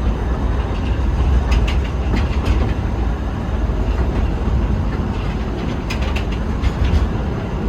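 Forest railway train running, heard aboard: a steady low rumble with two groups of sharp clicks from the wheels over rail joints, about a second and a half in and again around six seconds.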